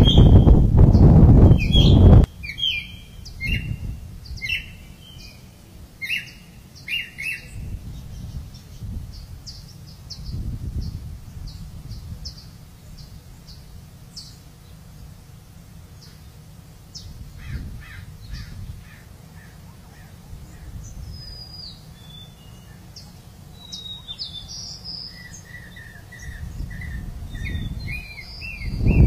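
Birds chirping and calling in repeated short bursts over a low rumble. A loud low rumble fills the first two seconds.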